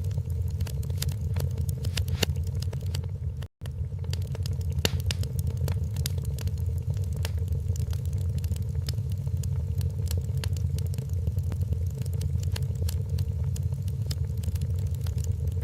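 Wood fire burning in a fireplace: a steady low rumble of the flames with many irregular sharp crackles and pops from the logs. The sound cuts out for a split second about three and a half seconds in.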